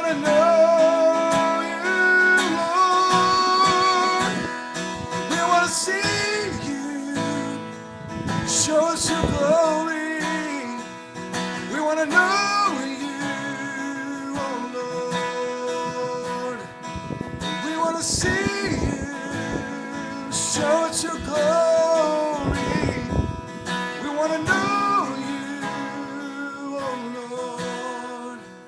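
A man singing a slow worship song to acoustic guitar strumming, with some long wavering held notes.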